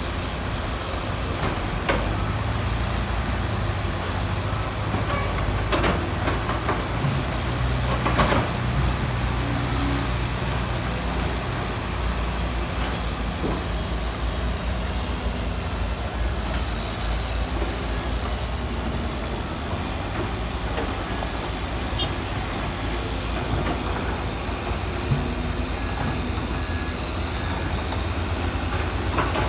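Heavy diesel engine of construction machinery running steadily with a deep rumble, with a few short clanks or knocks of metal work, about six and eight seconds in and again near the end.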